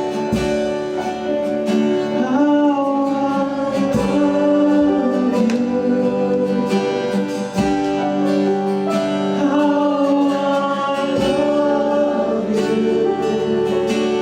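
Worship song: singing with guitar accompaniment, long held notes.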